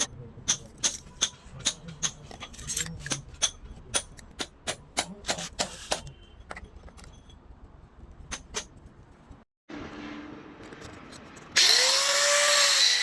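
A quick series of sharp taps or knocks for the first several seconds. After a break, a power tool starts near the end and runs loud, its motor whine rising in pitch as it speeds up.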